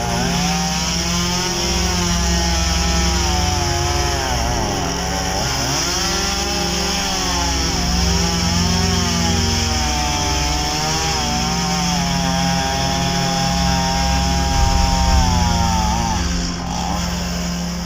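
Chainsaw running steadily, its engine pitch rising and falling repeatedly.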